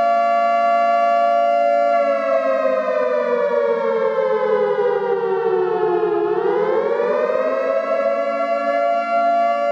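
Flood warning siren wailing: a steady, loud tone that sinks slowly in pitch for about four seconds, then climbs quickly back to its steady note.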